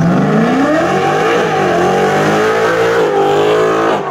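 Car engine revved hard from idle, held high with a couple of small dips and rises, then dropping sharply back to idle near the end.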